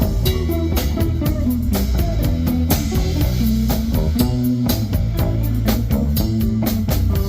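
Live blues-rock band playing: guitar over bass guitar and a drum kit keeping a steady beat.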